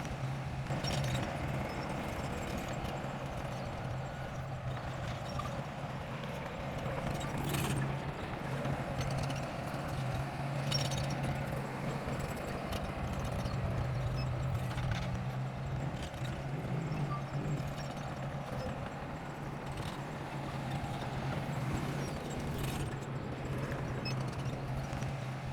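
Bulldozer's diesel engine running steadily with a constant low hum, with occasional sharp metallic clanks every few seconds.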